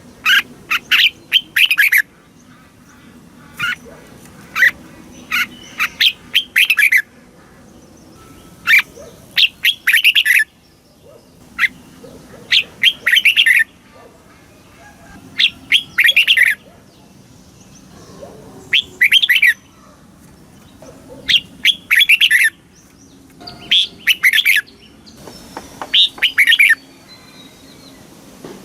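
Red-whiskered bulbul singing: short, loud phrases of quick chirping notes, repeated every two to three seconds.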